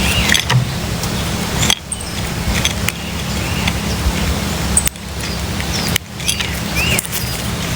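Short, repeated bird chirps, a few arched notes and some high thin ones, over a steady rushing background noise with a low hum.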